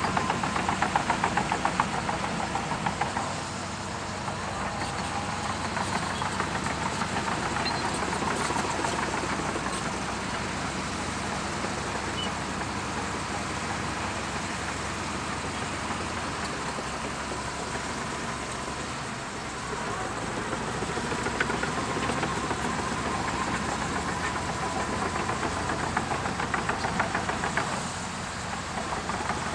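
Crawler bulldozer's diesel engine running under steady work, with a fast continuous rattle and clatter; the level dips and swells slightly as the load changes.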